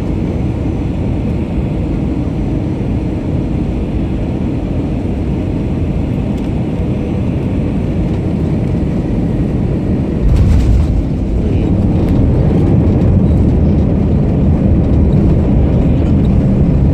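Airbus A321-231's IAE V2500 turbofan engine heard from inside the cabin: a steady jet roar. About ten seconds in comes a sudden thud as the wheels touch down, and the roar grows louder and deeper as reverse thrust is applied.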